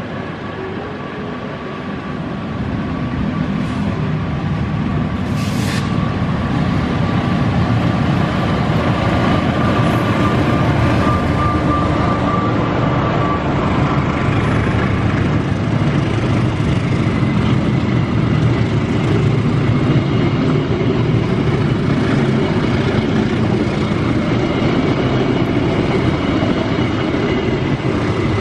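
Diesel-hauled passenger train passing close by: the rumble builds over the first few seconds as the locomotive arrives, then holds steady as the coaches roll past on the rails.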